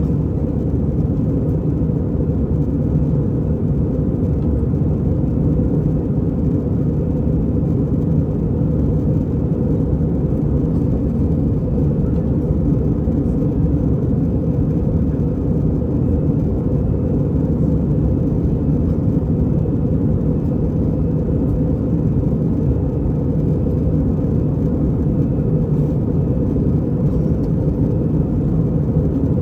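Airbus A320 cabin noise in flight: a steady, even rumble of engine and airflow, strongest in the low range and with no changes.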